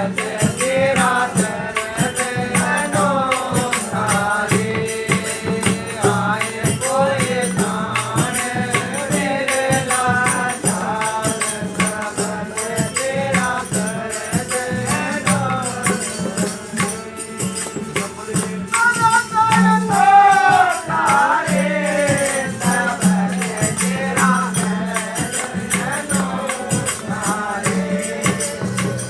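Devotional bhajan singing at a satsang: a voice sings a wavering melodic line over a steady low drone, with fast rhythmic rattling percussion throughout.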